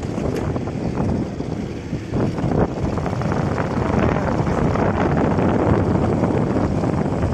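Steady wind rush and buffeting on the microphone of a moving bike, mixed with continuous riding noise.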